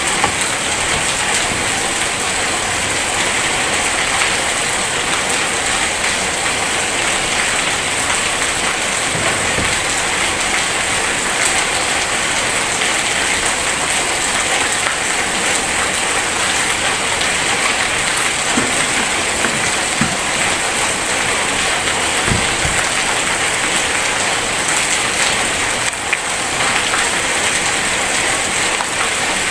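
Heavy rain pouring steadily, a dense, even hiss, with a few brief low thuds around the middle.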